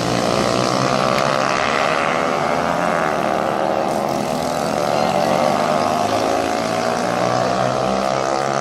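Several racing motorcycle engines running hard at once, their overlapping pitches shifting slowly up and down.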